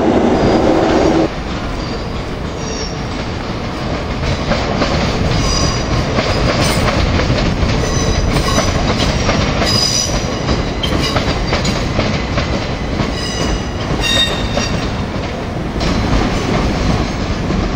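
A passenger train running over the curved station trackwork, its wheels rumbling and clattering on the rails with intermittent high-pitched wheel squeal. It is preceded by about a second of a carriage's interior running hum, which cuts off abruptly.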